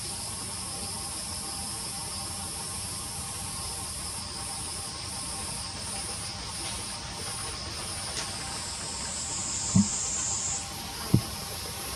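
Steady outdoor insect chorus with a hissy high buzz. Late on, a higher buzz swells and cuts off suddenly, and two short low thumps come about a second and a half apart near the end.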